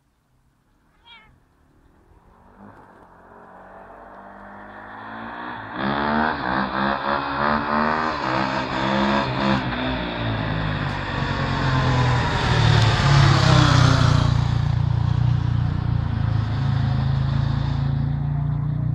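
KTM 525 single-cylinder four-stroke dirt bike engine, growing louder as the bike approaches and revving up and down, loudest about two-thirds of the way through, then running on more steadily.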